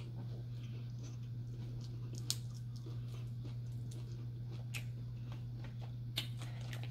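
Quiet chewing of a taco, with a few soft mouth clicks, over a steady low electrical hum.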